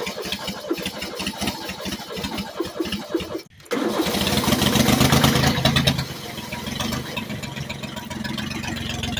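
Cold diesel engine cranking over with uneven, stumbling firing, the sign of a hard cold start despite long glow-plug cycling. After a short break it is running, held at higher revs for a couple of seconds, then drops to a steadier idle.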